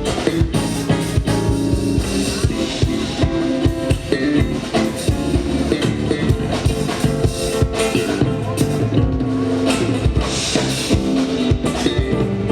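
Live rock-style band playing, with a drum kit keeping a steady, busy beat under guitar and bass.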